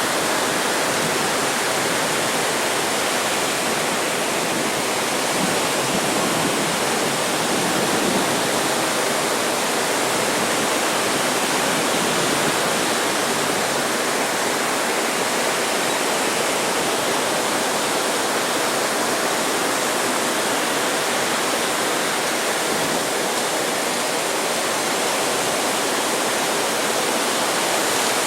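Steady, even rush of ocean surf breaking, with no single wave standing out.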